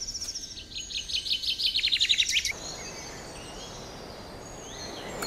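A songbird sings a quick run of repeated notes that fall steadily in pitch, ending about two and a half seconds in. Then comes quiet woodland background with a few faint bird chirps.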